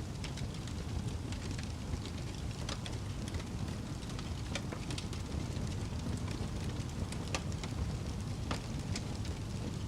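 Wood fire burning in a fireplace: a steady low rush with scattered sharp crackles and pops throughout.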